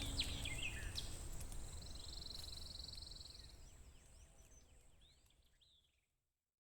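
Small birds chirping over a faint outdoor hiss, with a brief steady trill a second or two in; the whole fades away to silence near the end.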